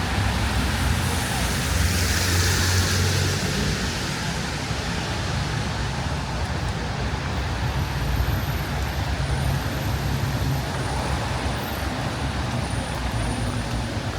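City street traffic: motor vehicles passing on a wet road over a steady wash of noise. The loudest pass, with an engine hum and a tyre hiss, comes in the first few seconds, and another vehicle follows about halfway through.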